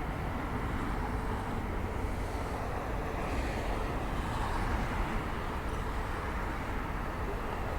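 Steady, even rumble of a jet airliner's engines as it approaches to land, over outdoor background noise.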